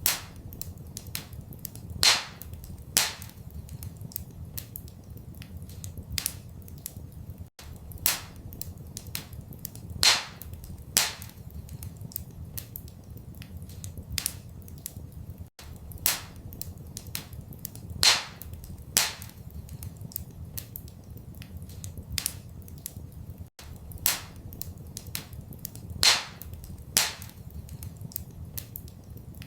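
Wood fire crackling in a fireplace: a stream of small sharp snaps with louder pops in pairs, over a low steady rumble. The same pattern of pops repeats about every eight seconds, each time after a brief dropout, as a looped recording does.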